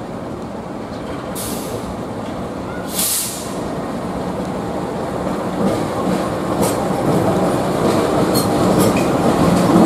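CC 206 diesel-electric locomotive running light, its engine rumble growing steadily louder as it approaches. Two short hisses come in the first few seconds, and the wheels click over rail joints near the end.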